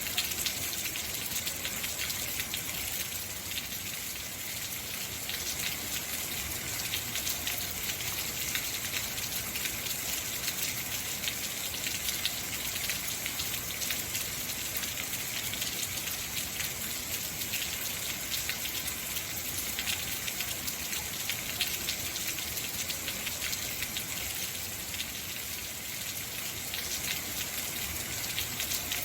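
Heavy rain falling steadily, a dense hiss of countless drops hitting surfaces.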